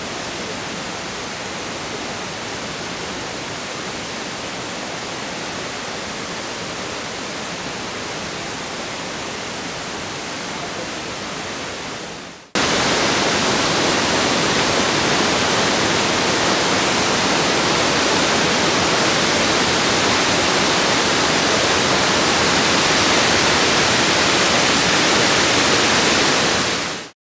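Flooded waterfall and river rushing, a steady wash of heavy fast-flowing water swollen by the rainy season. About halfway through it cuts to a louder, closer stretch of the torrent, which stops abruptly near the end.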